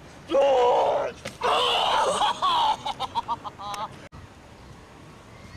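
People yelling and laughing in raised, high voices, ending in a quick run of short laughs about three seconds in.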